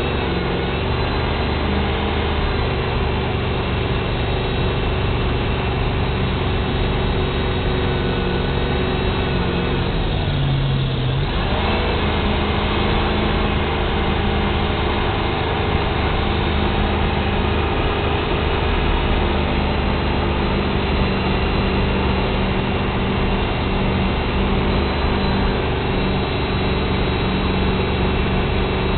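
Supercharged Lexus V8 jet boat engine running steadily under power. About ten seconds in the revs drop briefly and then climb back up.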